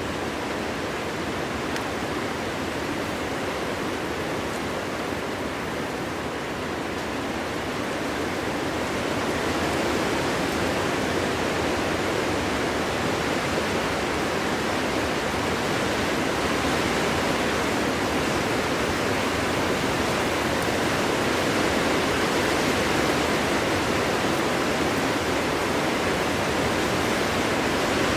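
Strong wind blowing steadily through a forest, a continuous rushing that swells slightly louder about a third of the way in.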